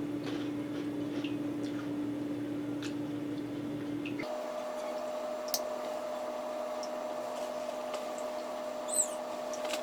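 Quiet chewing of a crunchy biscuit-stick snack, with a few faint small crunches and clicks, over a steady hum that shifts to a higher pitch about four seconds in.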